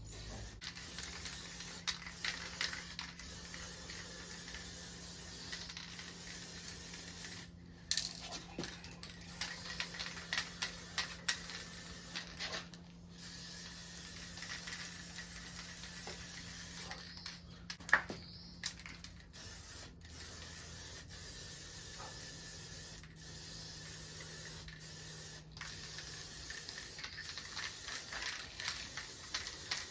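Spray paint hissing in long bursts onto a motorcycle frame, cut by a few short pauses, with scattered light clicks.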